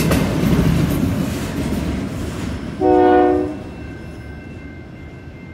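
Freight train's autorack cars rolling away on the rails, the wheel noise fading. About three seconds in, the locomotive at the head of the train gives a short horn blast, the loudest sound.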